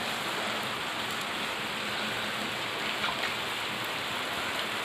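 Steady rain falling, an even hiss of rain at a constant level with a few faint drip ticks.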